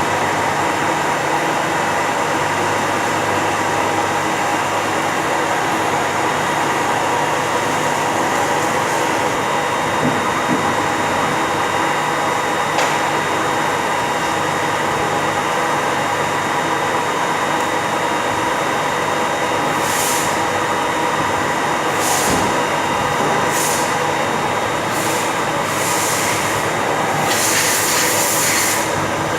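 Steady, loud din of machine-shop machinery running, with many steady humming tones. Several short hisses come in over the last third.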